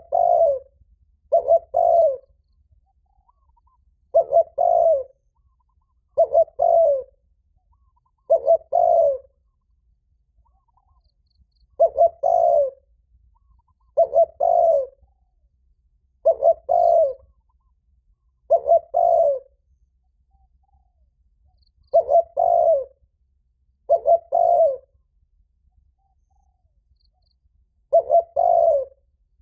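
Spotted dove giving its loud, ringing 'thúc' challenge call used to provoke a fight: short two-note coos repeated about every two seconds, with a few longer pauses.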